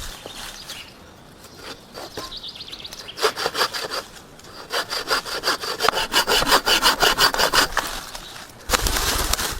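Hand saw cutting through wood in quick back-and-forth strokes, about four a second, after a few slower strokes to start. Near the end a louder, steady rushing noise suddenly sets in.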